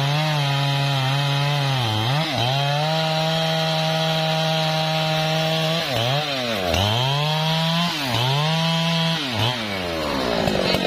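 Husqvarna 3120 XP two-stroke chainsaw running at high speed while cutting trembesi wood. Its pitch dips and recovers about four times, and it falls to a lower speed near the end.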